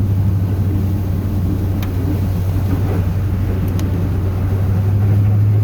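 Chevrolet 8.1-litre Vortec big-block V8 of a plow truck running on the road, a steady low drone that rises slightly in pitch and loudness near the end.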